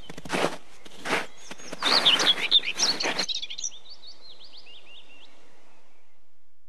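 Outdoor ambience with birds chirping: a steady hiss bed, several loud noisy bursts in the first three seconds, and quick rising-and-falling bird tweets from about two to four seconds in. The ambience fades out right at the end.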